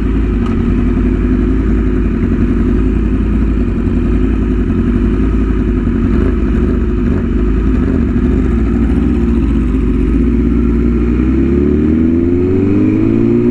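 BMW S1000RR's inline-four engine and exhaust under way, holding a steady note while cruising. About eleven seconds in, the pitch rises as the bike accelerates.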